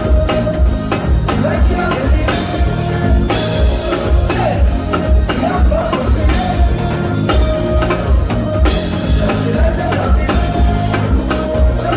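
Live band playing with a singer over drum kit and heavy bass, a steady pulsing beat.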